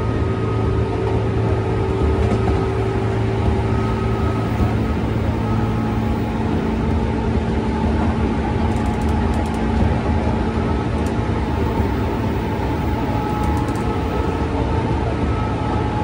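Interior of a JR West 201 series electric commuter train running at steady speed: a continuous low rumble of wheels and running gear, with faint steady tones that fade in and out.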